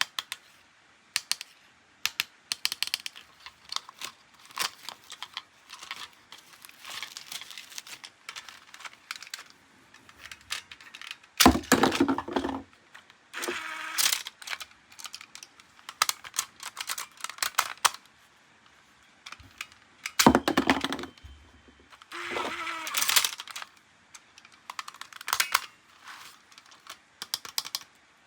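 Plastic toy parts being handled during an unboxing: irregular clicks and clacks, with a couple of louder rustling bursts.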